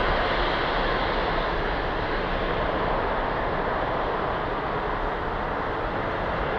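Jet airliner engines running as a steady roar, easing slightly and then holding.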